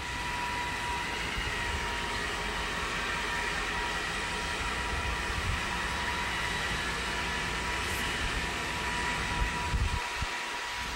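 Passenger train pulling away, heard from a carriage: the steady running of the class 232 diesel-electric locomotive hauling it and the rumble of the wheels on the track, with a steady high whine. A few heavier low knocks come near the end.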